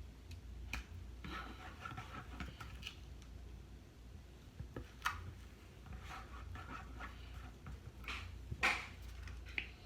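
Slime mixture of shampoo and conditioner being stirred in a cup: irregular light clicks of the stirrer against the cup and soft wet squishing, with a louder scrape near the end.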